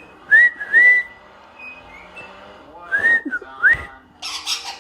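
Clear whistled notes in two pairs about two and a half seconds apart, each pair a quick rising note followed by a held or arching one. A short scratchy noise comes near the end.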